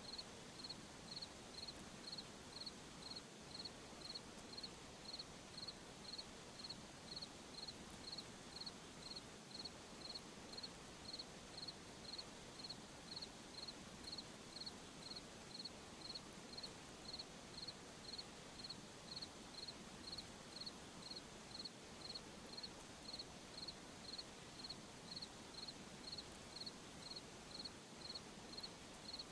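Cricket chirping at night in a slow, even rhythm, about three high chirps every two seconds, over a faint steady hiss.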